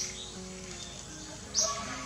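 Short high bird chirps, one loud chirp about three quarters of the way in, over soft background music with held notes.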